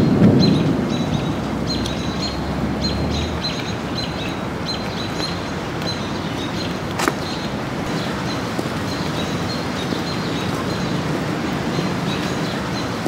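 The tail of a thunder rumble fading away within the first second, then steady outdoor background noise with a bird chirping over and over. A single sharp click about seven seconds in.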